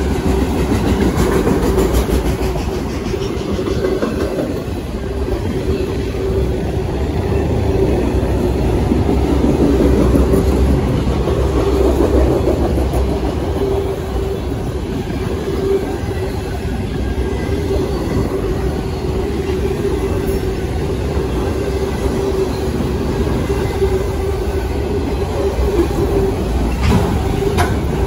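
Freight train of autorack cars rolling past close by: a steady rumble of steel wheels on rail, with a constant tone running under it.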